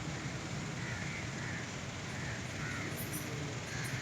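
Kittens mewing in short, repeated calls about every half second.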